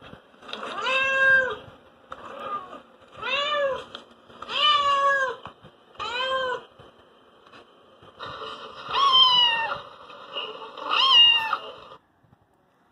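Cat meowing repeatedly: about seven separate meows, each under a second, rising then falling in pitch.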